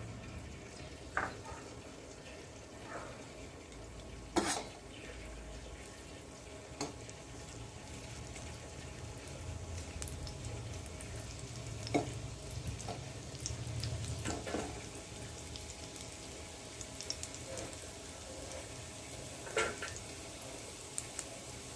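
Chopped ginger sizzling gently in hot ghee in a kadai while it is stirred, the spoon knocking against the pan about six times.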